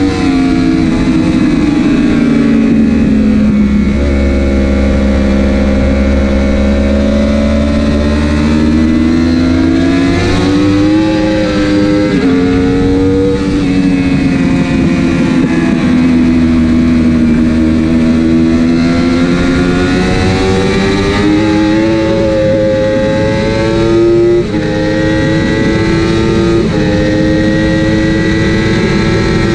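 Racing superbike engine running hard at high revs, its pitch swelling and sagging through the corners and jumping in sudden steps at the gear changes. With the quickshifter and autoblip out of action, the shifts are made on the clutch.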